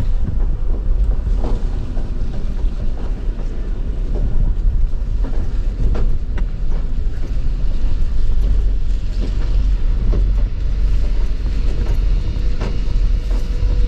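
Low rumble inside a vehicle's cab as it drives over rough, potholed ground, with frequent knocks and rattles as it bounces.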